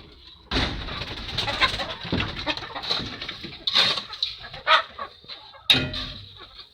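Chickens clucking among repeated scraping and knocking noises.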